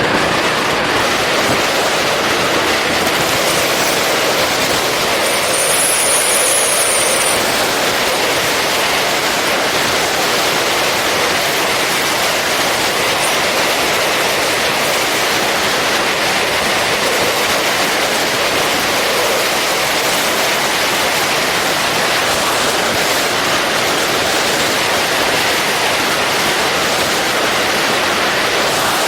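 Steady rush of wind and road noise buffeting the camera microphone on a moving motorcycle, with no clear engine note standing out. A faint high whistle comes through briefly about six seconds in.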